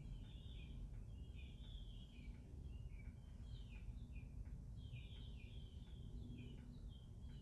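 Birds chirping over and over in quick, short notes that slide downward, over a faint, steady low rumble of outdoor background noise.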